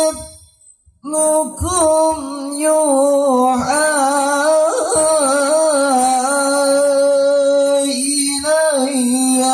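A man reciting the Quran in melodic tilawah style. After a short break about a second in, he holds one long note with a wavering, ornamented pitch.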